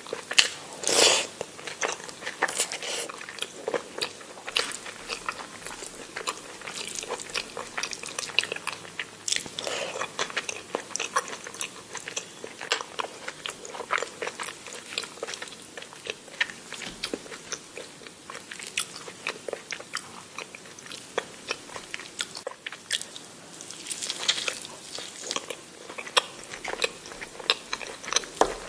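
A person eating: irregular crunchy bites and chewing, with louder crunches about a second in and again near the end.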